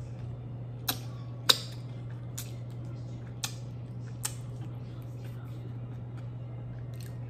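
Close-miked chewing of sushi: about six sharp mouth clicks and crunches, the loudest about a second and a half in, over a steady low electrical hum.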